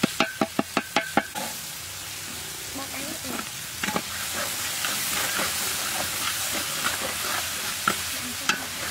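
Metal spatula scraping and clacking quickly against a wok, about five strokes a second, stopping about a second in. Then shallots and spice paste sizzling as they fry in oil, with an occasional single scrape of the spatula.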